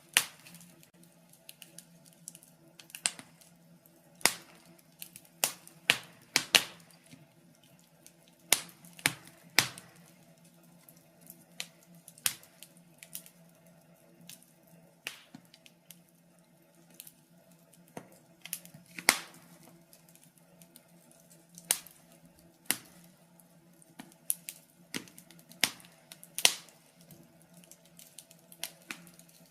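Wood fire in a fireplace crackling, with irregular sharp pops and snaps, some much louder than others, spaced from a fraction of a second to a couple of seconds apart, over a faint steady low hum.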